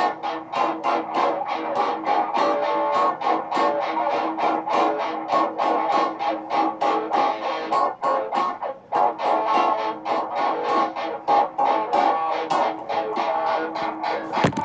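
Layered guitar loops playing a busy, rhythmic pattern of quickly picked and strummed notes, thinning briefly about two thirds of the way through.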